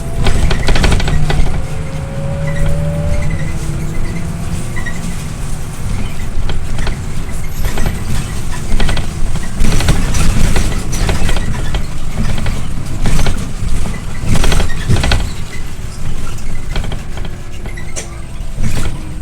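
Scania OmniLink I city bus on the move, heard from on board: the engine runs under a steady low hum while the body and fittings give off repeated knocks and rattles.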